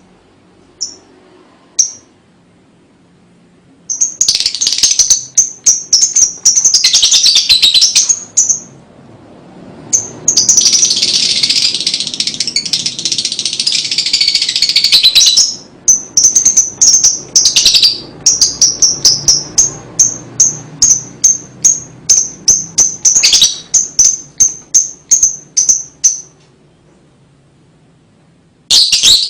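Lovebird ngekek: long bouts of fast, high-pitched chattering, then a run of evenly spaced sharp chirps, about two or three a second, with short pauses between bouts.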